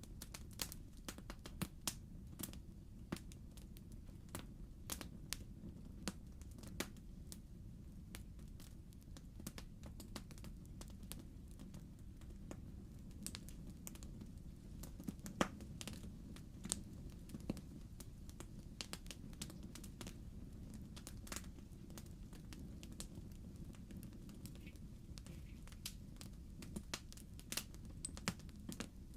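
Wood fire in a fireplace, burning logs crackling with irregular sharp pops over a steady low rumble. One louder pop comes about halfway through.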